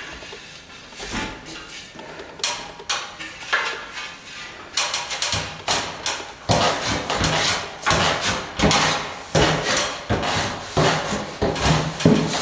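Hand tool knocking and scraping at ceiling plaster: a few scattered clicks, then from about five seconds in a rapid, irregular run of sharp strikes with scraping between them, typical of breaking through paintwork into the plaster.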